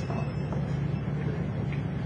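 A vehicle engine running steadily with a low hum, under outdoor street noise.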